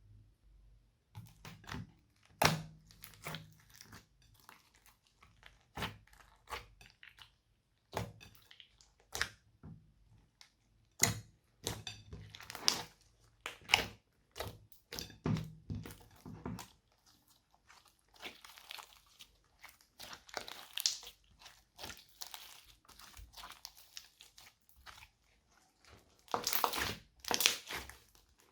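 Slime being squished and mixed by hand, giving irregular sticky pops and crunchy crackles, with a denser run of louder crackling near the end.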